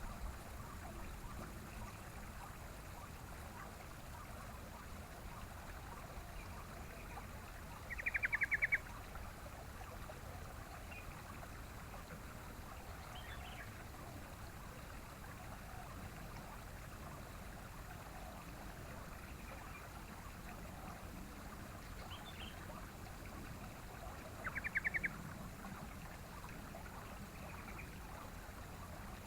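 Yellow-vented bulbul (trucukan) giving two short, rapid chattering trills, about eight seconds in and again near twenty-five seconds, with a few faint chirps between. A steady hiss like running water underlies it.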